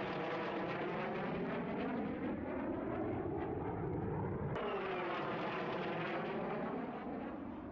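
Jet aircraft flying past: a steady jet rush with a sweeping, swirling tone. A little past halfway it breaks off abruptly into a second, similar pass.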